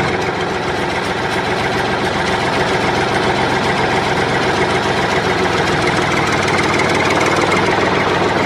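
Small motor of a homemade model tractor running steadily.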